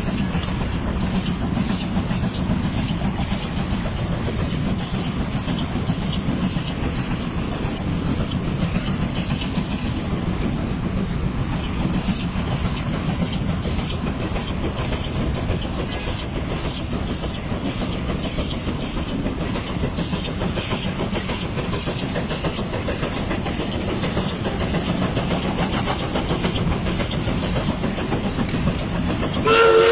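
1947 Baldwin Mikado 3 ft gauge steam locomotive running along the line, a steady rumble of exhaust and running gear on the rails. Right at the end its steam whistle begins to sound, a chord of several tones.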